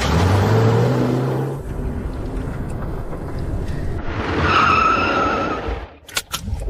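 A motor vehicle running with a loud rushing noise and a low engine hum at first, then a high whine from about four and a half to six seconds in.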